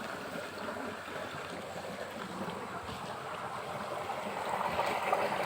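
Flood-swollen river water rushing steadily, a little louder near the end.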